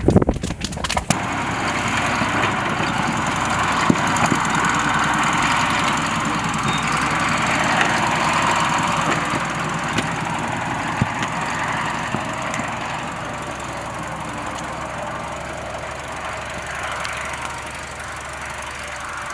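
A few sharp knocks, then an engine running steadily from about a second in, a low hum under a steady rushing noise.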